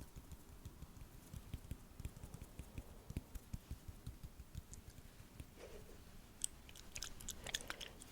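Quick close-up ASMR tapping and crackling right at the microphone: a dense run of soft low taps, giving way after about six seconds to sharper, brighter clicks.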